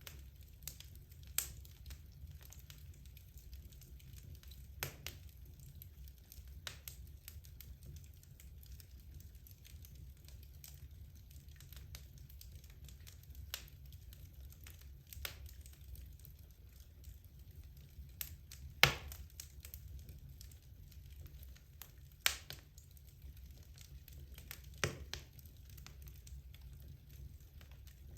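Wood logs burning in a fireplace, crackling with scattered sharp pops over a low steady rumble. The pops come irregularly, and the loudest is about two-thirds of the way through.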